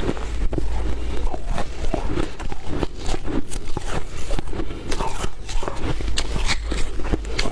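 Soft, powdery freezer frost from a humidifier-fed freezer being chewed and crunched up close, in quick, irregular crunches with no pause.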